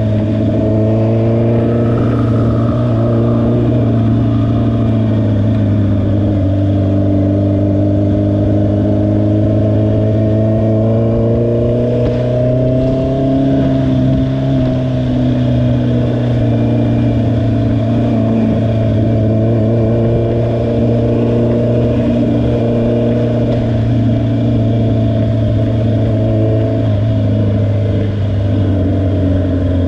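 Honda CBR650R's inline-four engine running under way at a fairly steady cruise, its pitch slowly rising and falling over several seconds as the throttle changes.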